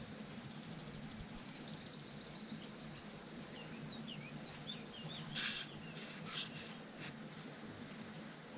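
Small birds calling over a faint steady background: a fast high trill, then a run of short chirps, followed by a few brief sharp calls after the middle.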